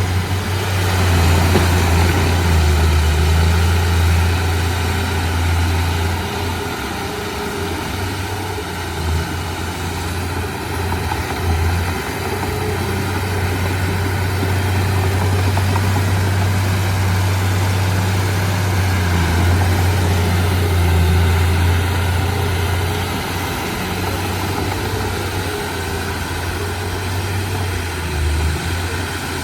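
Heavy diesel engine of earthmoving equipment running continuously, a deep low hum that eases and swells in loudness.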